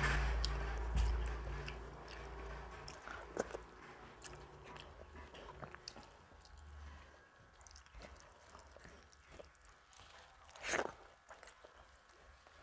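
Close-up eating sounds of rice and curry eaten by hand: chewing and wet mouth clicks, with soft squelches of fingers mixing food on the plate. A single louder wet mouth sound comes near the end.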